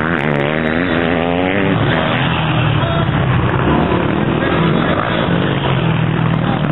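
Motocross dirt-bike engines revving, pitch rising and falling over the first two seconds, then holding steadier.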